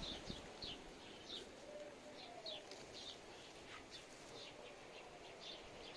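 Small birds chirping faintly, short high chirps at irregular intervals of about two a second, over a faint outdoor hiss. There are a couple of soft knocks right at the start.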